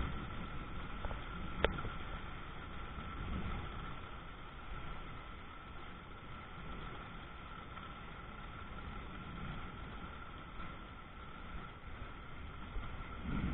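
Steady heavy rain falling, with one sharp click about two seconds in and a faint steady tone underneath.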